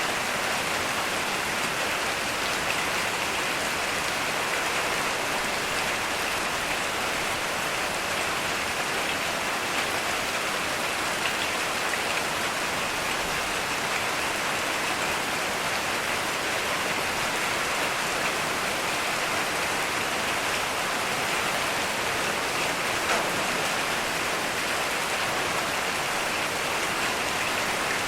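Heavy rain falling steadily, an even hiss with the odd louder drop.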